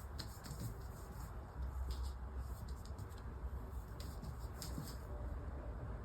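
Scattered light clicks and scratches over a steady low rumble.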